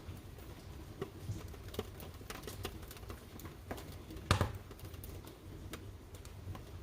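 Wood fire in a fireplace crackling, with irregular sharp pops over a low steady rumble. One louder pop comes about four seconds in.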